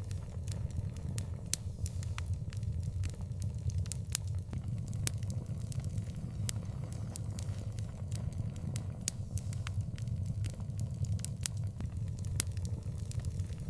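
Wood fire burning in an outdoor fireplace: irregular sharp crackles and pops, several a second, over a steady low rumble.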